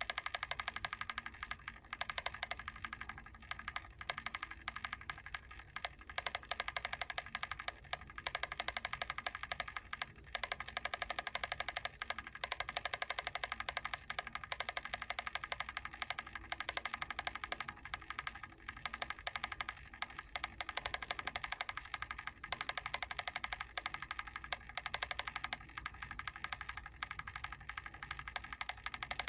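Mechanical timer switch clicking rapidly and steadily as its timing mechanism runs.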